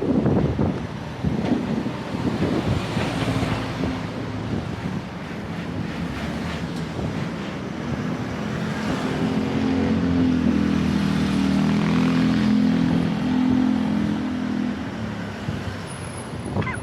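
Road traffic with wind buffeting the microphone. About halfway through, a nearby vehicle's engine hum swells, holds for several seconds, then fades.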